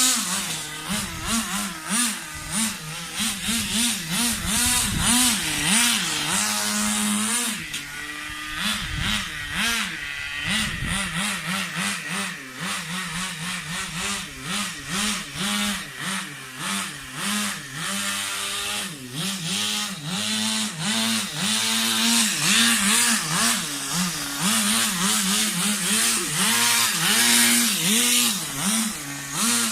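Small two-stroke nitro glow engine (Thunder Tiger 15 Pro) of an RC car running and being blipped over and over, its high buzzing pitch rising and falling about once a second, with a few short steadier stretches.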